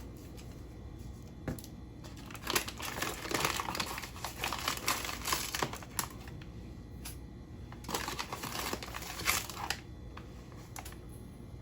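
Crinkly rustling in two separate stretches, with a few light clicks, as two tablespoons of granulated sugar are scooped and tipped into a bowl.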